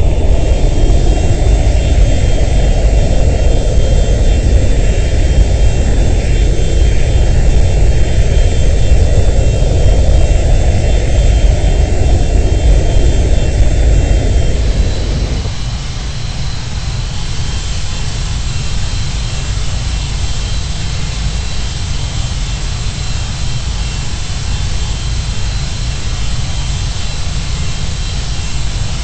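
Boeing 737-200's Pratt & Whitney JT8D jet engines running with a loud, steady roar. About halfway through the roar drops to a lower, steadier level and stays there.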